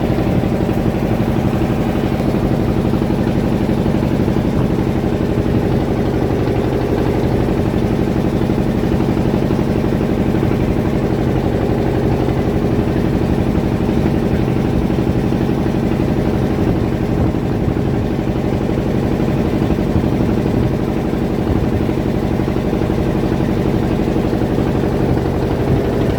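Fishing boat's engine running steadily at an even pace, a loud, constant drone.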